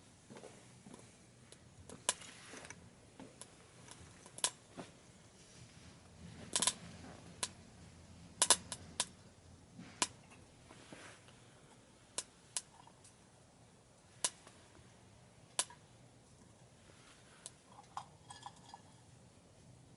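Wood fire crackling in a small secondary-combustion wood stove: sharp, irregular snaps and pops of burning wood, some much louder than others, over a faint steady background.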